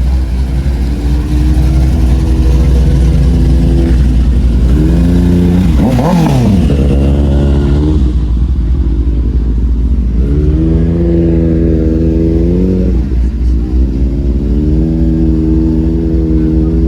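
A car engine idling and being revved: one quick blip up and back down about six seconds in, then held at higher revs twice for a few seconds each.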